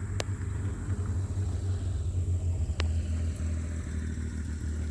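Low, steady rumble of a vehicle driving along, with two sharp clicks a few seconds apart.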